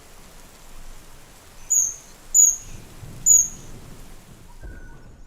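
Three short, sharp, high-pitched bird calls, well under a second apart, over the steady hiss of monsoon rain.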